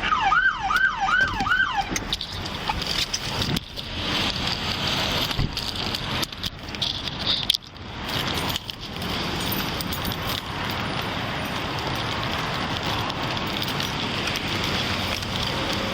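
Emergency vehicle siren on a fast yelp, four quick rising-and-falling sweeps that stop about two seconds in, followed by a steady rushing noise.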